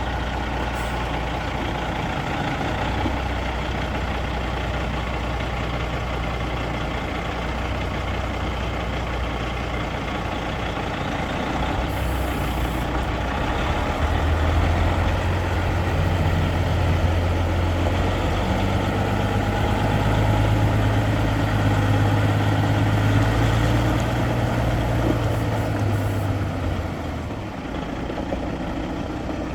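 Kenworth tandem-axle road tractor's diesel engine idling, then held at a higher, louder speed from about halfway through before dropping back to idle near the end.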